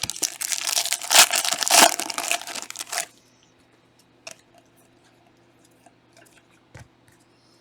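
A trading-card pack wrapper being torn open and crinkled for about three seconds. A few faint clicks follow as the cards are handled.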